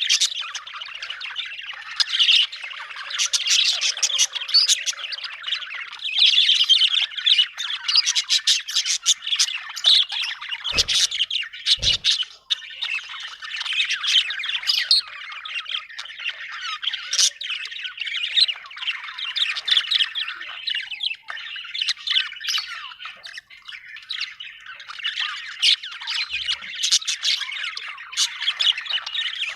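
Budgerigars chattering, with rapid warbling chirps and squawks that overlap without pause. Two brief low thuds come about eleven and twelve seconds in.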